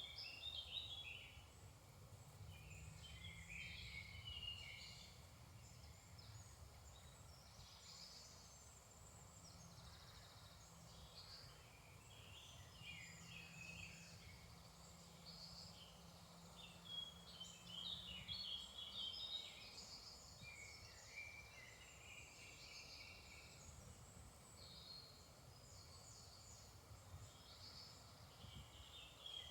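Faint morning chorus of several songbirds singing and calling over one another, over a low steady rumble.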